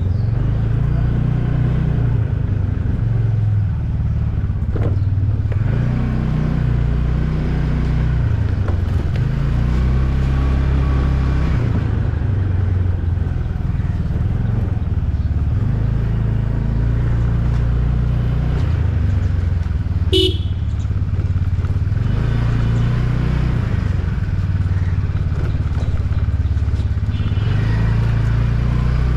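Motorcycle riding through traffic: a steady, loud low rumble of engine and road, with one short vehicle horn honk about twenty seconds in.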